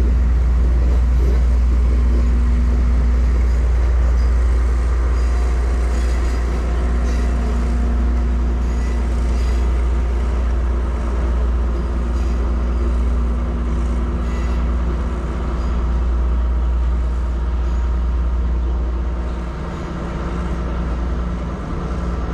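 A moving vehicle's steady low rumble, with a faint hum from its running gear over it.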